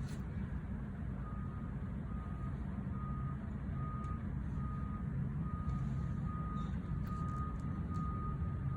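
A vehicle's reversing alarm beeping at an even pace, a single high tone about once every 0.7 s, starting about a second in, over a steady low rumble.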